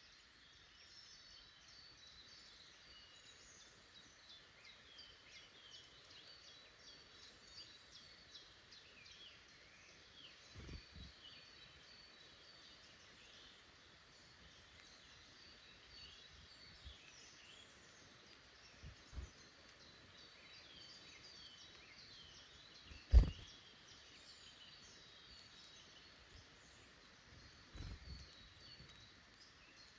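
Wild woodland birds chirping and singing without pause, with a few dull low thumps; the loudest is a sharp knock about three-quarters of the way through.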